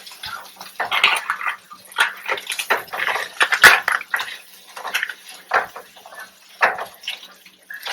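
Dishes and utensils being handled, with irregular clinks, knocks and short scrapes.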